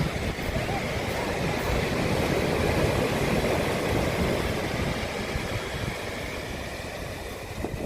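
Heavy surf breaking on the shore, with wind rumbling on the microphone; the wash swells a couple of seconds in and slowly eases.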